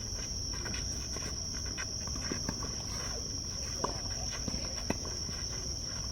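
A steady, high-pitched insect drone, with scattered footsteps and light taps on the tennis court.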